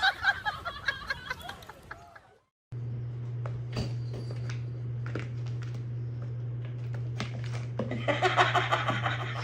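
People laughing, then a sudden cut to a steady low hum with scattered clicks, and laughing voices again near the end.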